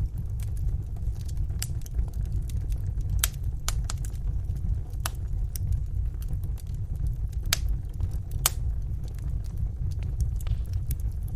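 Wood fire burning in a fireplace: a steady low rumble of the flames with sharp crackles and pops at irregular moments.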